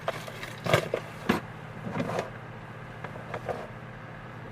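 Hand tools and small metal carburetor parts being handled and set down, giving scattered sharp clicks and knocks, the loudest about a second in, over a steady low hum.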